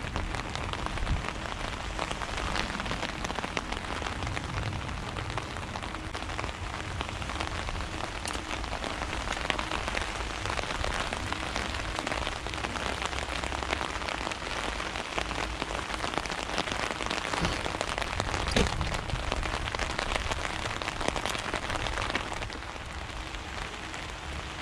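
Steady patter of rain, a dense hiss of many small drops, easing slightly near the end.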